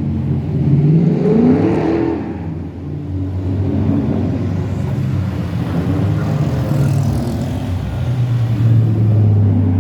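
Rally car engine revving, rising in pitch about a second in, then running on at steadier revs with a deep low drone near the end.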